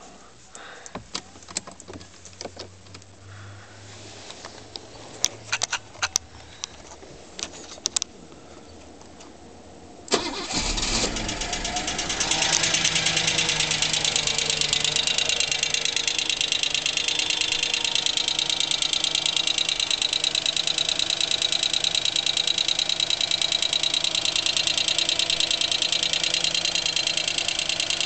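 A few scattered clicks, then a Mercedes-Benz M117 V8 cranks and catches about ten seconds in and settles into an idle with a fast, steady ticking from the left cylinder head. The hydraulic lifters have already been replaced and the rockers and camshaft are fine; the owner suspects a stretched timing chain and a timing-chain tensioner weak enough to be pushed in with a finger.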